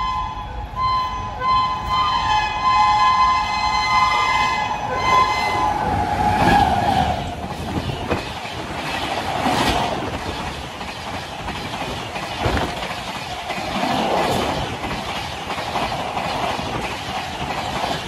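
An express train's locomotive horn sounds a long steady blast as it approaches, its pitch dropping as the locomotive passes about six seconds in. Then red LHB passenger coaches rush past at speed with repeated wheel clatter.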